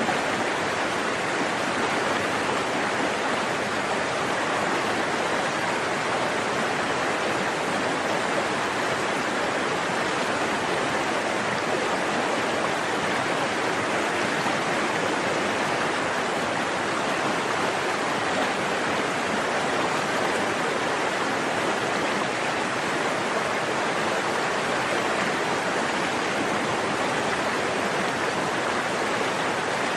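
A forest stream flowing, a steady, unbroken rush of running water.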